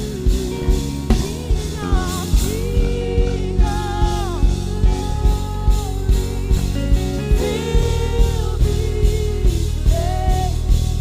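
Worship band music with a drum kit keeping a steady beat of about two hits a second under a flowing melody line.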